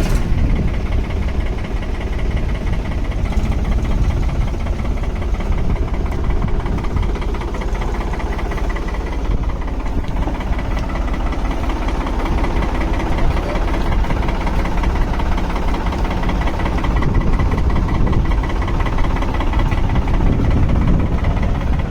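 Engine running steadily at idle with a rapid, even knocking beat.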